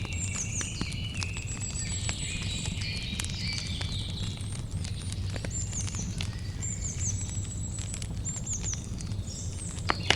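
Wood campfire crackling, with scattered sharp pops over a steady low rumble and one louder pop near the end. Birds chirp high in the background in short, quick falling notes.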